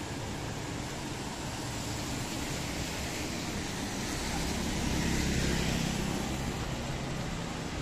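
Street traffic over a steady hiss, with one vehicle passing close, loudest about five seconds in.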